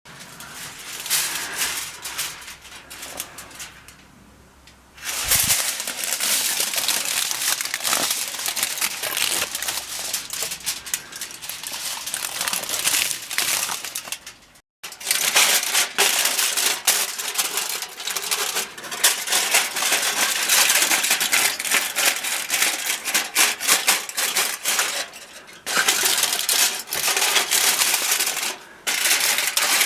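Dense, rapid scraping and clicking of hand work on stone and mortar, broken by several abrupt cuts.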